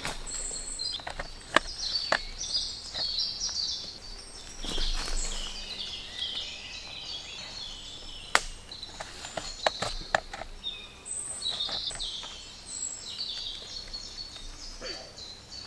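Birds singing, a busy run of short, high chirps and trills, with a few sharp clicks close by.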